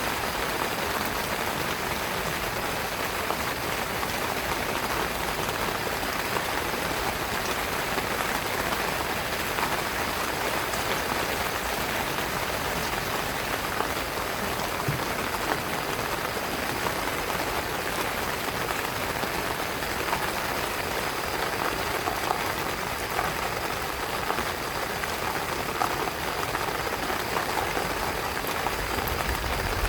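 Heavy rain falling steadily on a tent, a dense, even hiss of many small drop hits.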